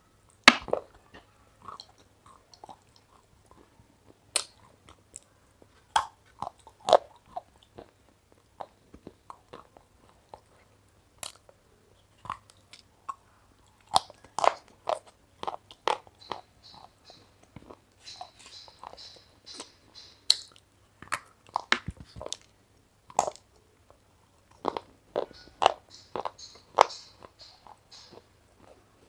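Biting and chewing ice-cream-coated fried chicken: irregular sharp crunches mixed with wet mouth and lip sounds. The loudest bite comes about half a second in.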